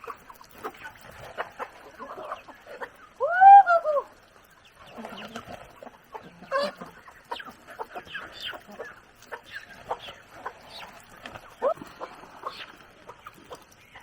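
Chickens clucking, with a loud drawn-out squawk about three and a half seconds in and a shorter one near the end.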